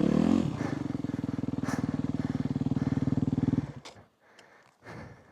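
Dirt bike engine running at a steady low speed with a fast pulsing beat, then cutting off suddenly about three and a half seconds in. Heavy breathing follows.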